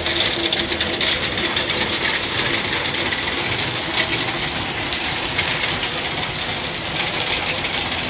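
Steady heavy rain pattering on paving and a wet road, with a faint low hum under it for the first few seconds.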